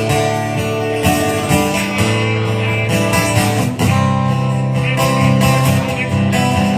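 Solo acoustic guitar playing a slow chord progression, the chords changing about every second or two.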